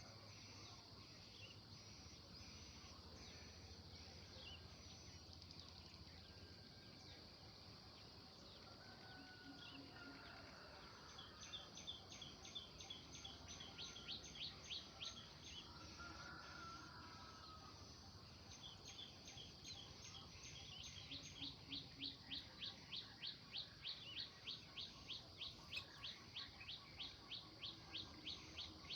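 Faint birdsong: a bird repeats quick, high chirps at about three a second in two long runs, the second starting a little after the middle, over a steady high hiss.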